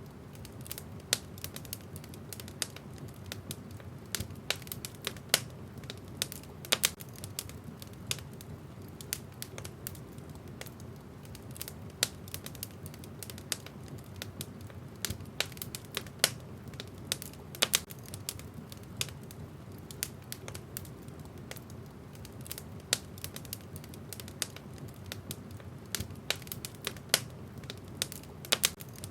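Wood fire burning in a fireplace: irregular sharp crackles and pops of burning logs, several a second, over a steady low rush of flame.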